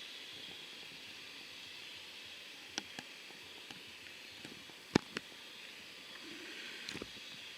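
Faint steady hiss with a few sharp clicks scattered through it, the loudest about five seconds in.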